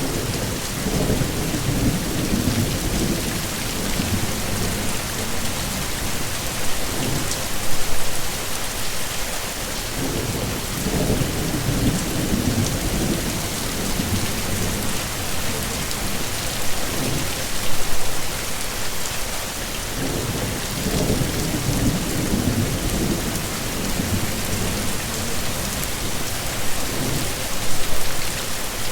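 Heavy rain falling in a steady hiss, with low thunder rumbles swelling and fading every few seconds.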